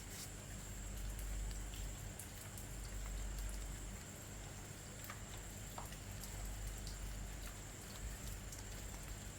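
Rain falling steadily, with scattered single drops ticking close by. A thin, steady high tone runs underneath.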